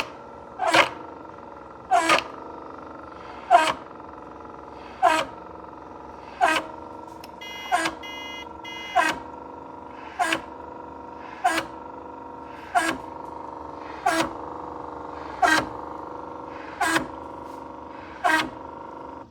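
A machine runs with a steady hum, struck by a short sharp pulse about every one and a half seconds, fourteen times. The sound cuts off suddenly at the end.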